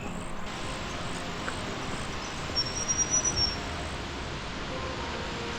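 Steady rushing noise of Wallaman Falls, a high waterfall, heard from the track below the lookout, with a few low bumps and a short high whistle near the middle.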